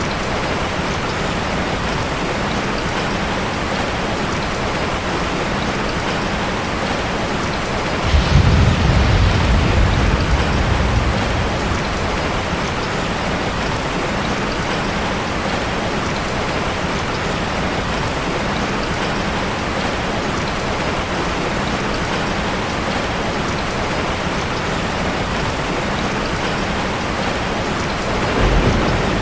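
Heavy rain falling steadily, with a low rumble of thunder swelling about eight seconds in and fading over a few seconds, and another rumble starting near the end.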